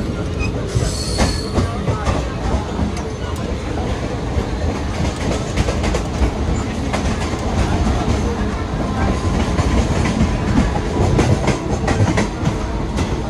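Mumbai suburban electric local train running, heard from inside the carriage at an open doorway: a steady rumble with wheels clattering over the rail joints, the clatter growing busier about halfway through.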